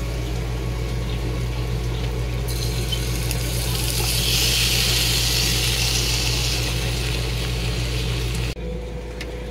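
Corned beef hash tipped off a plate into a hot oiled pan, starting to sizzle about two and a half seconds in, loudest around the middle, over a steady low appliance hum. The sound cuts off abruptly near the end.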